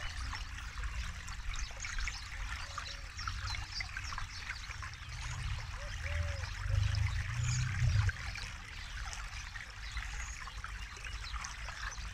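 River water flowing and trickling over stones, a steady bright babble, with a low rumble that swells louder from about halfway through and eases off after about eight seconds. A few short, low arched calls sound faintly at times.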